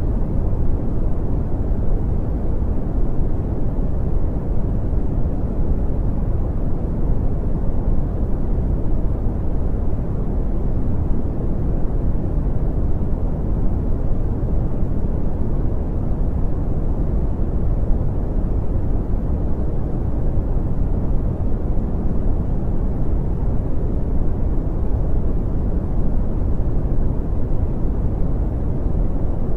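Steady brown noise: a deep, even rumbling hiss, strongest in the bass and falling away smoothly toward the treble, with no changes.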